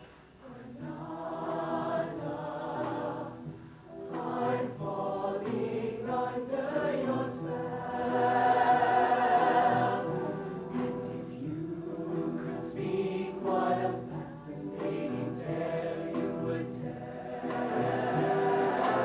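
Mixed high school show choir singing a sustained choral passage, swelling to its loudest about eight seconds in.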